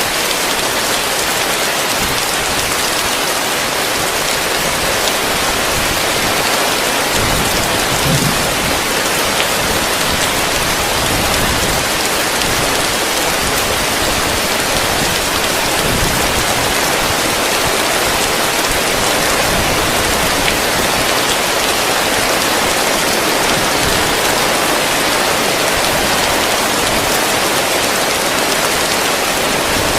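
Heavy rain falling steadily on a roof, heard from underneath: a dense, even hiss of drops.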